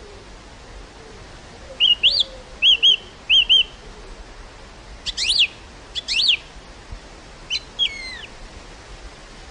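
A bird calling over a steady hiss of wind: three quick paired chirps about two seconds in, then two louder sweeping calls and a last shorter call near the end.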